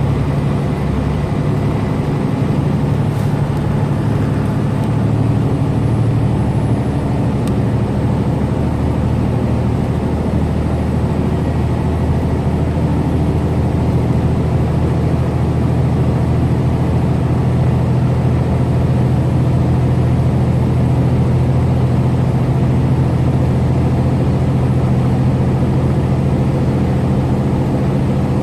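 Semi truck's diesel engine running steadily at highway cruising speed, heard from inside the cab as a low, even drone mixed with road noise.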